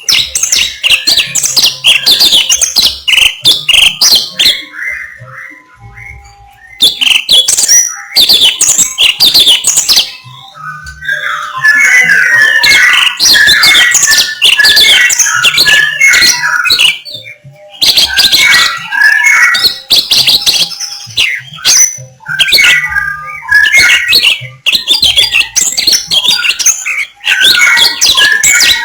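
A songbird singing loud, rapid, varied phrases of chirps and whistles, each lasting a few seconds and separated by brief pauses.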